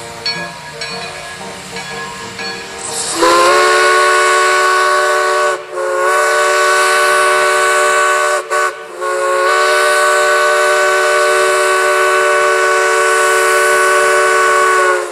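Steam locomotive whistle blowing a loud, multi-note chord that starts about three seconds in. It sounds in two shorter blasts and then one long blast, each sliding slightly up in pitch at the start, consistent with a departure signal from a narrow-gauge steam locomotive leaving the station.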